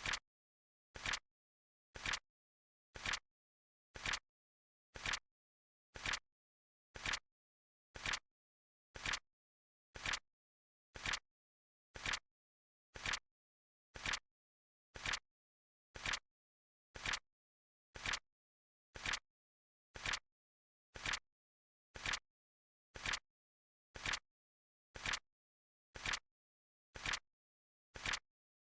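Flip clock sound effect: a short, crisp flap click as each card flips, once a second, with silence between.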